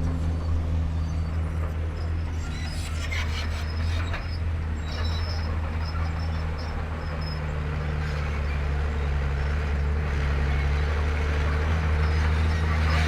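Heavy diesel engine of construction machinery running steadily with a low hum, with a few metallic clanks about three to five seconds in.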